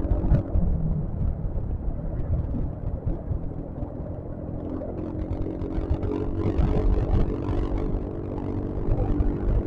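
Yamaha XMAX scooter's engine running steadily under way, over heavy wind and road rumble on a riding microphone.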